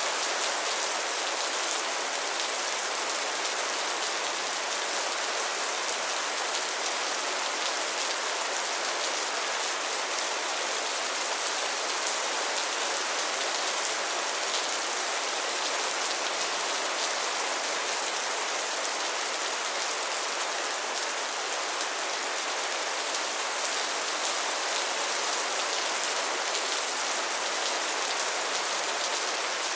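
Steady rain falling and pattering on a surface, an even hiss of many drops.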